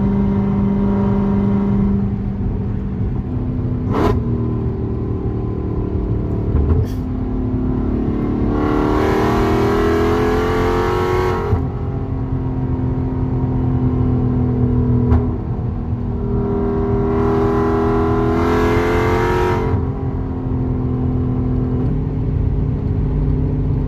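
Car engine and exhaust at highway speed, heard over steady road noise. Twice the engine note climbs for about three seconds under acceleration, then drops back to a steady cruise.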